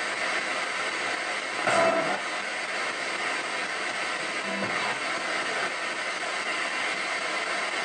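Spirit box radio scanning through stations: a steady static hiss, broken by brief snatches of broadcast sound, the loudest a little under two seconds in.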